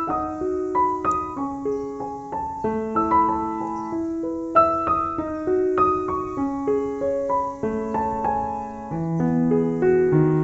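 Background piano music: a flowing melody of single notes over held lower notes, with deeper bass notes coming in near the end.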